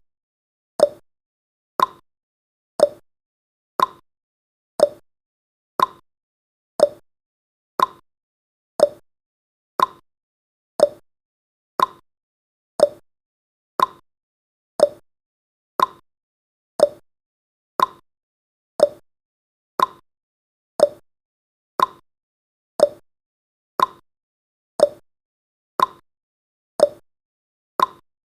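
Clock-tick sound effect of a countdown timer, one short tick a second, alternating between a higher and a lower tick.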